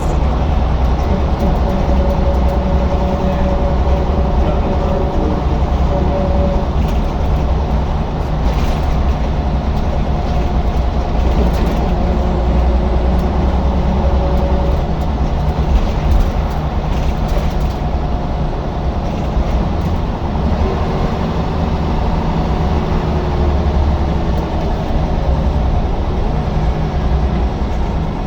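Scania L94UB single-deck bus's diesel engine running under way, a steady low drone with a faint whine that shifts in pitch as the bus changes speed.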